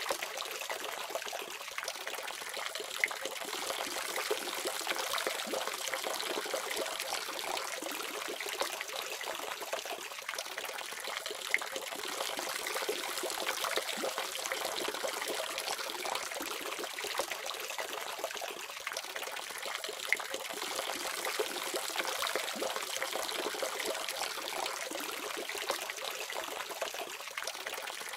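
Water running steadily from a faucet: a constant splashing stream with the odd sharper splash.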